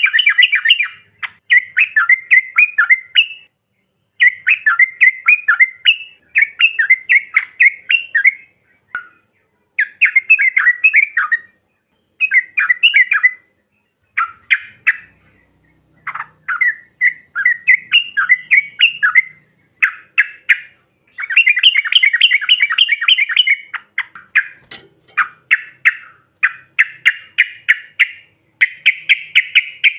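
Yellow-vented bulbuls (trucukan) chattering in rapid, bubbling phrases of quick notes, one to two seconds each with short pauses, running almost without a break near the end.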